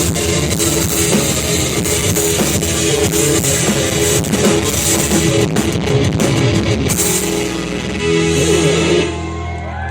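Live rock band playing, with drum kit and electric guitar. Near the end the drums and cymbals stop and the band holds a final chord that rings out as the song ends.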